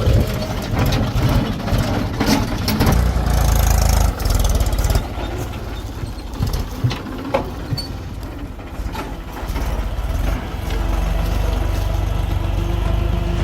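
Diesel engine of heavy machinery running, a tractor or backhoe loader at work, growing louder twice as it takes more load. Scattered knocks and clanks sound over it.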